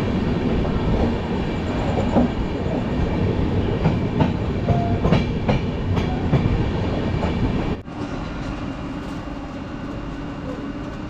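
Passenger express train running on the track, a steady rumble with the wheels clacking over rail joints. The sound drops abruptly about eight seconds in and goes on a little quieter.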